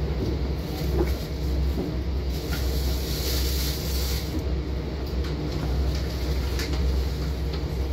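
Long Island Rail Road train hauled by a DM30AC locomotive, running along steadily with a constant low rumble, and a hiss for a couple of seconds partway through.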